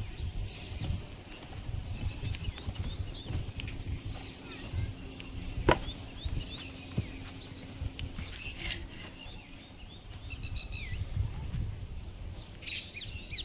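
Outdoor rural ambience: scattered short bird chirps and calls over a low rumble, with one sharp click about six seconds in.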